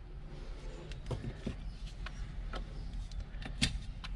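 Scattered light clicks and taps of tools and small metal parts being handled while a string trimmer is taken apart, over a low steady hum.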